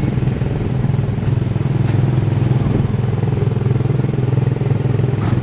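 Small gasoline engine of a Tomorrowland Speedway ride car running at a steady speed under way, a loud continuous putter heard from the open car's seat.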